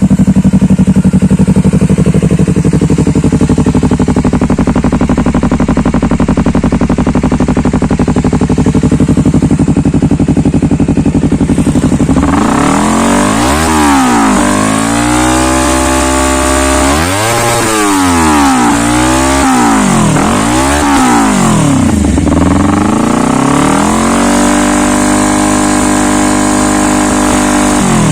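Honda CBR250RR parallel-twin engine running through an aftermarket Triton GT-5 stainless full-system exhaust: it holds a steady, even note for about twelve seconds, then is revved up and dropped back again and again, each blip rising and falling in pitch.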